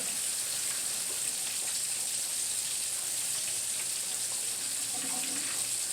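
Floured chicken wings deep-frying in hot oil in a wok: a steady sizzling hiss with fine crackle.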